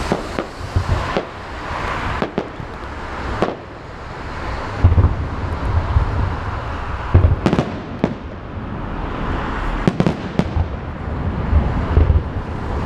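Aerial fireworks shells bursting one after another at an irregular pace, deep booms mixed with sharper cracks over a continuous hiss.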